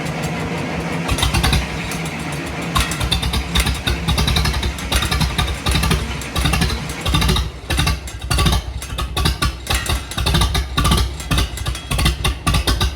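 Case 730 tractor engine running with a steady pulsing beat of firing strokes. The beat turns choppier and more uneven a little past halfway.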